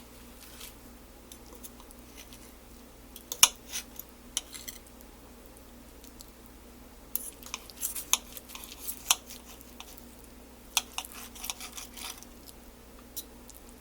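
Knife and fork cutting chicken breast on a plate, with scattered clinks and scrapes of cutlery against the plate in short clusters.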